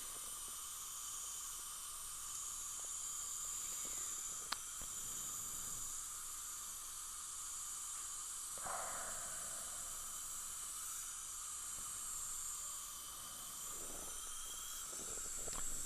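Steady hiss of dental operatory equipment running during an implant crown access procedure, with a single sharp click about four and a half seconds in and a brief falling sound just past halfway.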